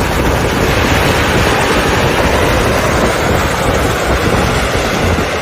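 Jet engine on a monster truck running, a loud, steady rushing noise with no clear pitch.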